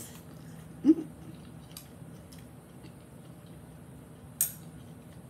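Mouth sounds of chewing a mouthful of stir-fried noodles and vegetables, with a short, loud mouth noise about a second in. About four seconds in, a metal utensil clicks sharply against the glass serving bowl.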